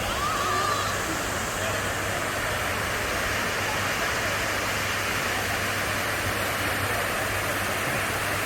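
Waterfall pouring into its pool: a steady rush of falling water.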